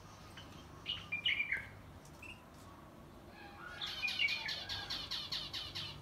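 Small aviary birds chirping: a few short, high chirps in the first half, then near the end a fast, buzzy run of repeated chirps, about seven a second.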